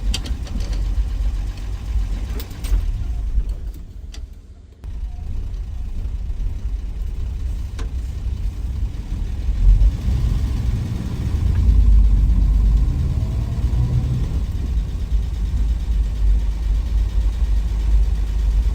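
1963 Willys Wagon's 230 Tornado overhead-cam straight-six running on the road as a low drone. The sound dips briefly around four seconds in, comes back suddenly, then grows louder about ten seconds in as the engine pulls harder.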